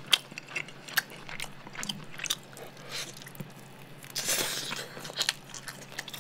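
A person chewing and biting roast chicken meat, eaten by hand close to the microphone: small, scattered wet mouth clicks throughout. A brief louder noise comes about four seconds in as a piece of meat goes into the mouth.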